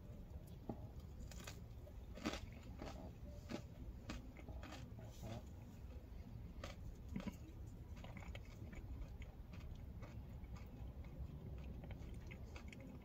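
Faint close-up chewing of a biscuit, with scattered small clicks and mouth sounds over a low steady rumble.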